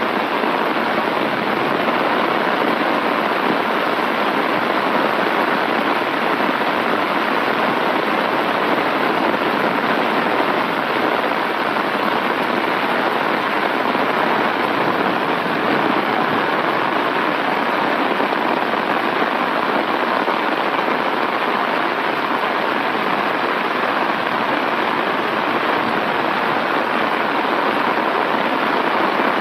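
Heavy rain falling steadily: a dense, even hiss of the downpour with no breaks or single events.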